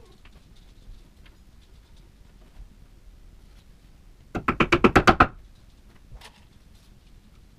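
A quick run of about ten sharp, ringing knocks packed into about a second, a little past halfway; otherwise faint room noise.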